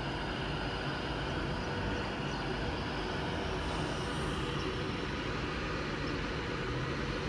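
Alstom Class 390 Pendolino electric train standing at the platform, held at a red signal, its onboard equipment giving a steady low hum.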